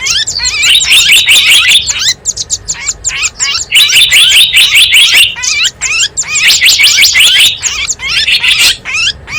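Dense, fast twittering and chirping of many small birds, as played on a lure recording for wild small birds, with bursts of rapid high trills every couple of seconds.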